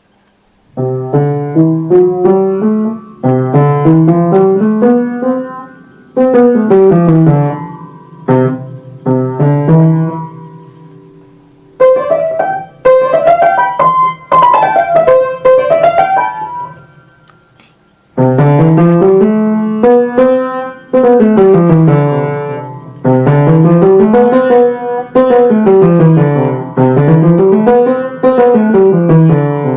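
Piano-type keyboard notes running quickly up and down in scale-like runs, played in several phrases with short pauses between them.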